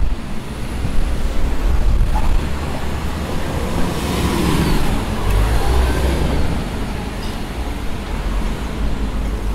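Street traffic going by, a steady rumble of passing vehicles, with one passing louder and brighter about four to six seconds in.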